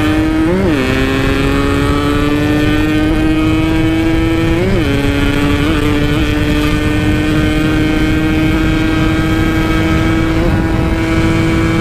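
Yamaha RX-King's single-cylinder two-stroke engine at high revs under hard acceleration, heard from the bike itself. Its pitch climbs slowly, broken by two quick upshifts, about half a second in and near five seconds in, where the revs flare briefly and then drop.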